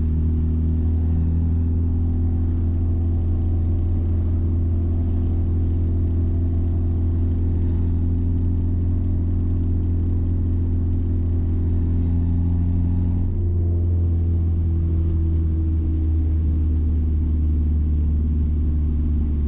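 Mazda B-series pickup's EFI engine running steadily under way, its exhaust loud with the exhaust cutout open, heard from inside the cab as a low steady drone. The drone breaks briefly and changes tone about two-thirds of the way through.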